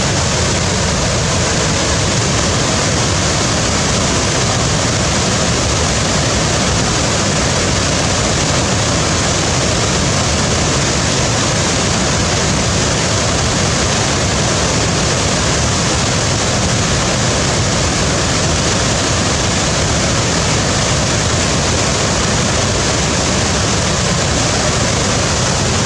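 Waterfall: a steady, unbroken rush of falling water that holds the same level throughout.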